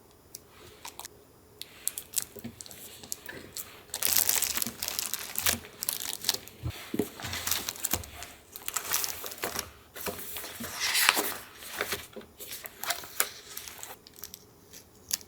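Paper crinkling and rustling as collage papers are handled, amid scattered small taps and clicks. Two longer spells of dense rustling come about four seconds in and again near eleven seconds.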